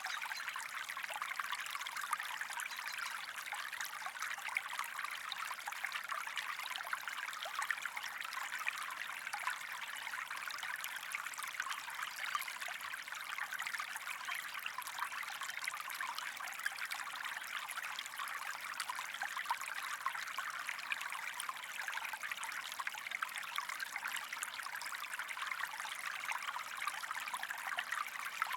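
Water trickling and splashing in a small stream: a steady, unbroken babble of fine splashes.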